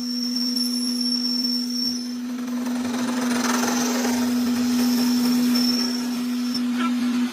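A workshop power tool or machine motor running steadily with a steady hum and a faint high whine, cutting off suddenly at the end.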